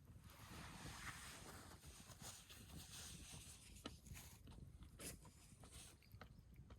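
Near silence, with faint scattered clicks and light rustling, a couple of slightly sharper clicks about four and five seconds in.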